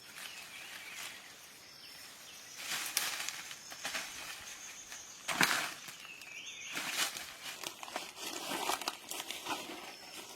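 Irregular rustling and crunching, like movement through dry leaves and brush, with the loudest crunch about halfway through and a few faint high chirps.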